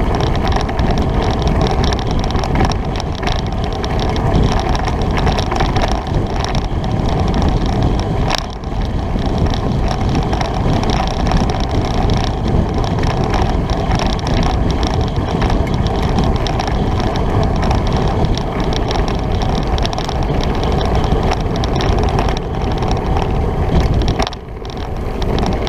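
Wind rushing over the microphone with the tyre and drivetrain noise of a bicycle ridden fast in top gear. The noise is loud and steady, easing briefly about eight seconds in and again near the end.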